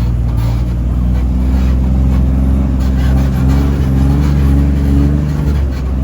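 Off-road 4x4's engine running at low revs as it crawls a rocky trail, heard from inside the cab, its note wavering slightly up and down.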